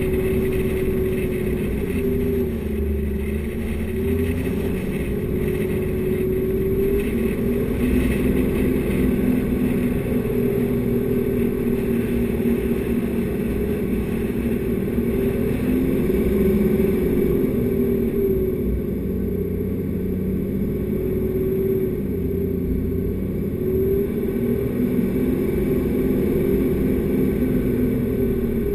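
Four-wheel-drive vehicle's engine driving through soft sand, its note rising and falling repeatedly with the throttle over a steady low rumble.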